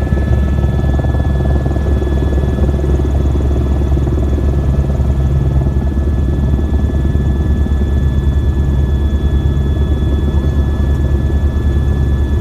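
Helicopter in steady flight, heard inside the cabin: a loud, constant low rotor and engine drone with a fast, even beat, and a thin steady high whine above it.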